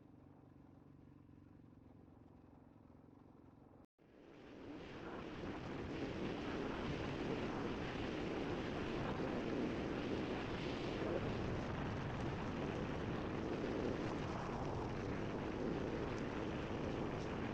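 Riding noise from a dirt bike on a gravel road: a steady rush of wind and road noise. At first there is only a faint low hum, then a sudden break about four seconds in, after which the rush swells over a couple of seconds and holds steady.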